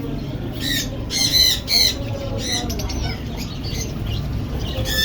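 Java sparrows giving short, sharp calls: a cluster of loud calls in the first two seconds, another about halfway, and fainter ones after, over a steady low rumble.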